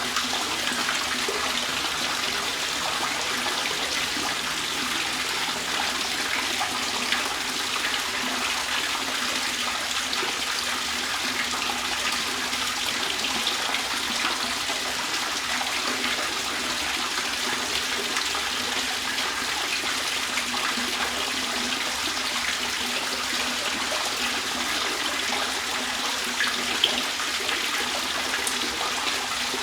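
Trickling, splashing water, running steadily and evenly, with a couple of faint clicks in it.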